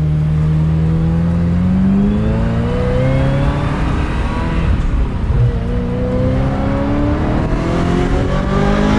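Ferrari F355 F1's 3.5-litre V8 through a Tubi exhaust, accelerating hard: the engine note rises steadily, drops at a gearshift about halfway through, then rises again in the next gear.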